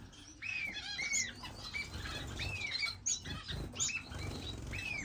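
Many small caged finches chirping over one another, short arched calls repeating throughout, with wings fluttering now and then.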